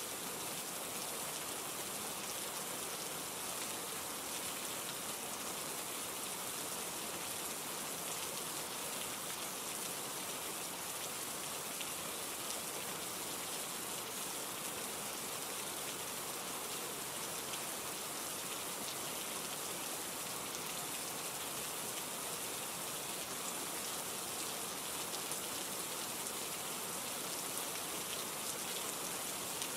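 Steady rain falling: an even hiss of many drops that holds at one level throughout.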